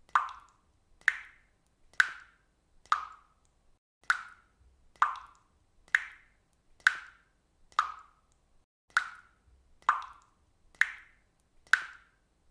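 Water dripping from a faucet: single drops plopping in an even rhythm, about one a second, each a short plop that fades quickly.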